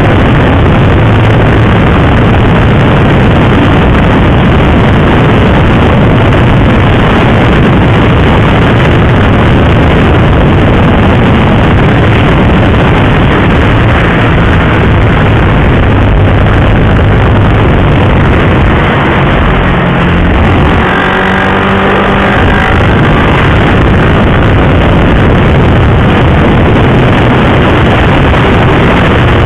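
Single-cylinder sport motorcycle riding at speed: loud, steady wind rush on the microphone over the engine's drone. About two-thirds of the way through, the engine note briefly climbs in pitch.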